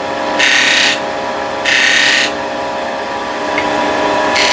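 Wood lathe running with a steady hum while a spindle gouge is brought against the spinning wood three times in short, light cuts, each a brief hissing scrape.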